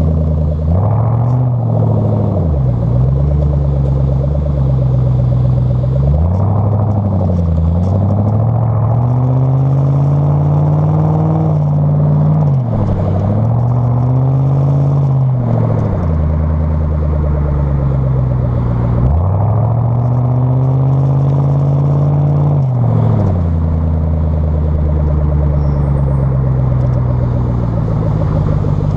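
Ford Mustang 4.6 V8 running through its exhaust, engine pitch rising and falling in repeated swells with several sharp, brief dips in pitch.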